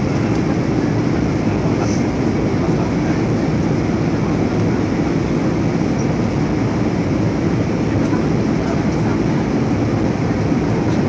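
Steady cabin noise inside an Airbus A320 in flight: the engines and the rush of air over the fuselage make an even, low-pitched rushing sound that holds the same level throughout.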